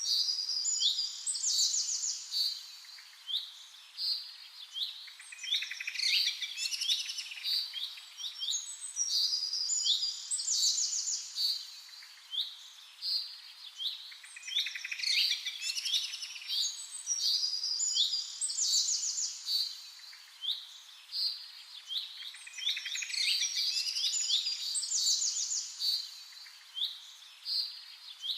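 Several songbirds chirping and singing, short overlapping calls and trills following each other closely, over a faint steady hiss.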